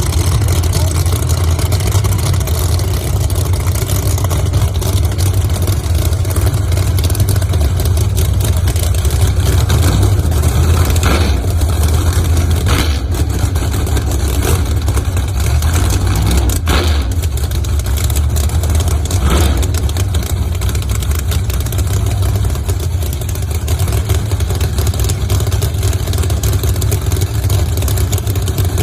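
Loud, steady engine rumble from drag-racing cars, with a few short sharp cracks near the middle.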